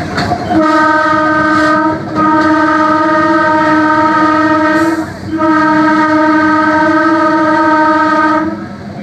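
Train air horn sounding three blasts, a short one and then two long ones, each held at one steady pitch, over the running noise of the moving train.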